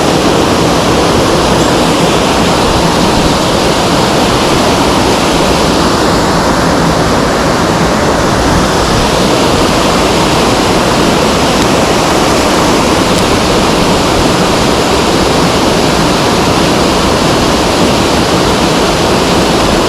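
Mountain stream water rushing steadily over rocks, loud and close.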